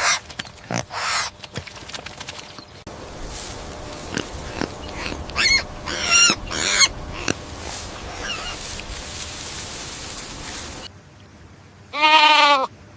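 Goats bleating in a string of short farm-animal recordings cut together, the calls quavering in pitch. The loudest bleat comes near the end.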